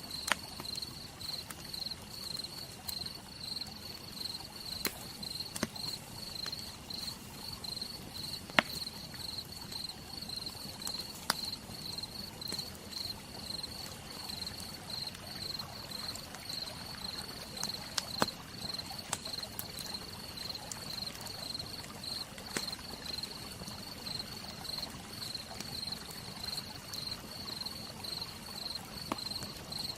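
Campfire crackling, with scattered sharp pops over an even hiss of rain. A cricket chirps in a steady, evenly pulsing trill.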